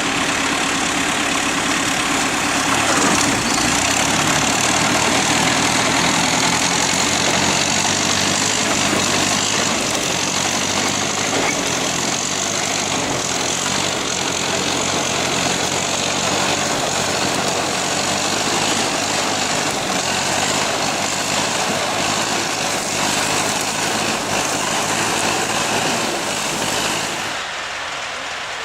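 An engine running steadily at a constant speed. Near the end it drops slightly in level and turns duller.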